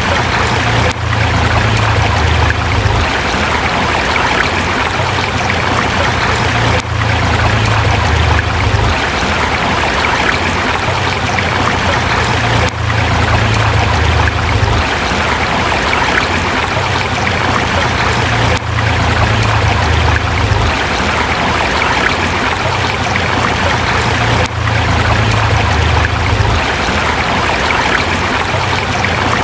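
Forest river water rushing steadily over rocks, with a brief dip in level about every six seconds.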